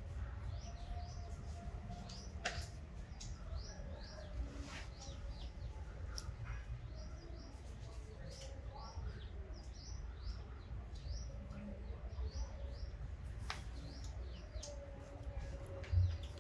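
Small birds chirping, many short high notes repeating throughout, over a low background rumble, with a faint hum that comes and goes and a low bump near the end.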